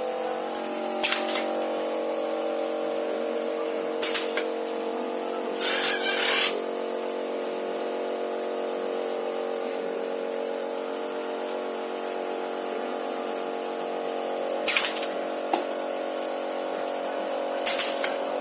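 Cup filling and sealing machine running with a steady hum, broken five times by short hissing bursts of air, the longest about six seconds in.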